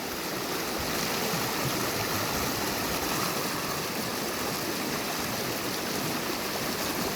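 Steady rushing of a small river flowing over rocks, with water splashing and gurgling.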